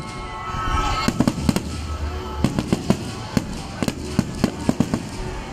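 Fireworks display: aerial shells bursting in a rapid run of sharp bangs, several a second at times.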